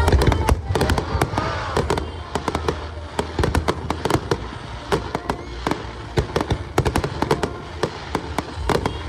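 Aerial fireworks going off in a dense barrage, with many sharp bangs and crackling pops in quick, irregular succession.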